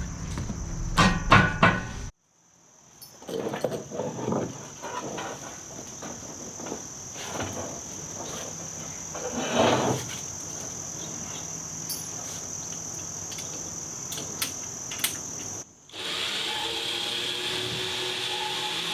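A steady high-pitched insect trill runs under scattered clunks, knocks and rattles from an old VW pickup being pushed along on wheel dollies. A few loud knocks come about a second in.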